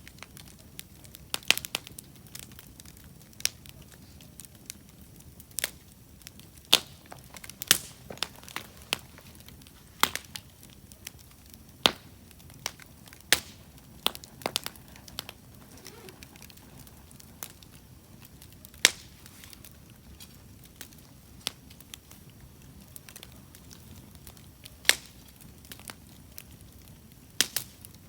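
Wood fire crackling: sharp, irregular pops and snaps every second or so over a low, steady hiss of burning.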